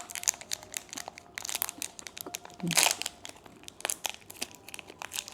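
Candy wrapper crinkling and tearing as a sweet is unwrapped, with many irregular small crackles.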